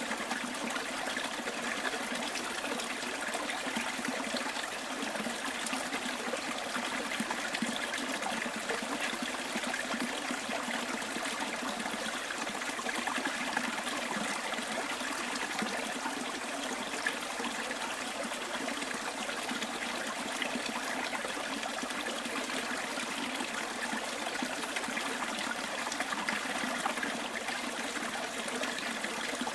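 Small stream flowing and trickling over stones, a steady even rush of water.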